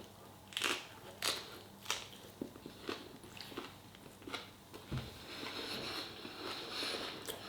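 A person biting and chewing spicy food, a string of short mouth clicks about once or twice a second, with a faint steady hiss in the second half.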